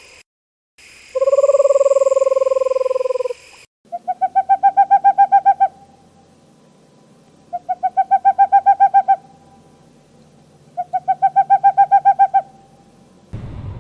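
Owl calling: two long, even hoots near the start, then three trilled calls a few seconds apart, each a quick run of pulses lasting about a second and a half.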